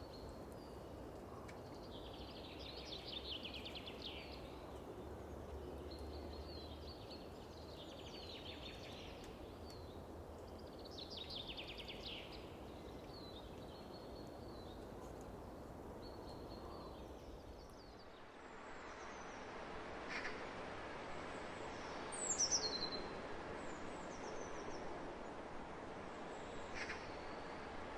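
Wild birds singing short repeated phrases every few seconds over a steady hiss of wind across open fields. About two-thirds of the way through the background changes, and near the end sharp high calls falling in pitch come in twice.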